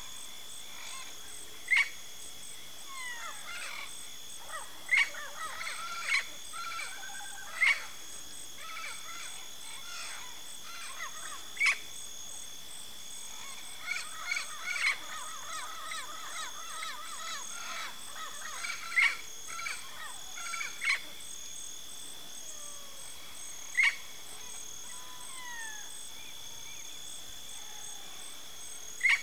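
Yellow-faced parrots (Alipiopsitta xanthops) calling: loud, sharp single calls every few seconds, with bouts of softer chattering calls in between. A steady high whine runs behind them.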